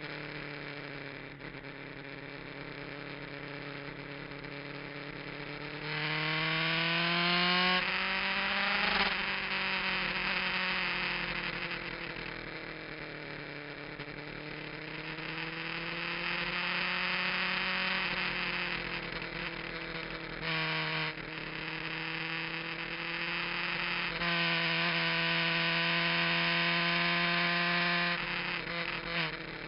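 Kawasaki GPZ900R's inline-four engine, fitted with an aftermarket muffler, running hard on track and heard from the bike itself. Its pitch climbs under acceleration, falls away when the throttle is eased, drops briefly about two-thirds through, then holds high for several seconds before being shut off near the end.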